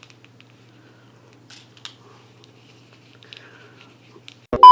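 Faint scattered clicks and rustles over a low steady hum, then near the end a loud, steady electronic beep tone, the kind laid over a video as a censor bleep, cuts in suddenly.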